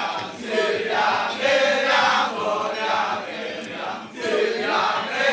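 Kecak chorus of voices chanting together in loud phrases with short breaks between them.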